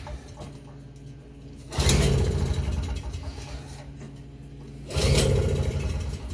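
Toro CCR2500 snowblower's 5 hp two-stroke engine being cranked twice, each try lasting about a second and a half, without catching. This is a no-start fault traced to the carburetor.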